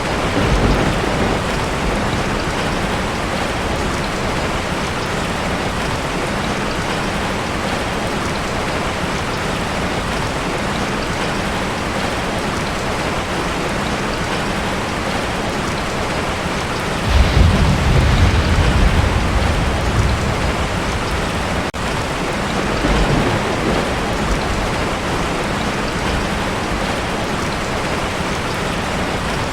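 Heavy rain drumming steadily on a tin roof, with thunder rumbling low about halfway through and fainter rumbles near the start and later on.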